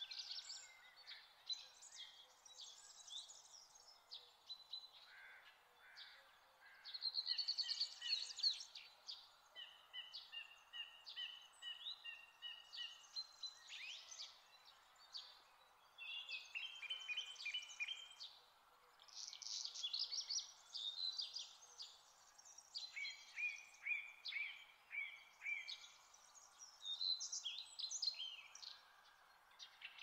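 Songbirds singing, quick repeated phrases and trills one after another and sometimes overlapping, over faint steady background noise.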